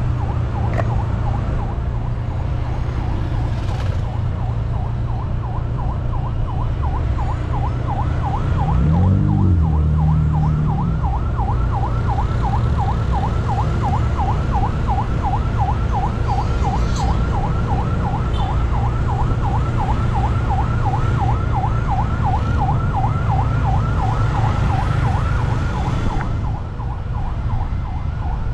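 Railway level-crossing warning alarm warbling rapidly and evenly, a few cycles a second, over the steady rumble of idling road vehicles held at the crossing. The warble is loudest from about a third of the way in until near the end.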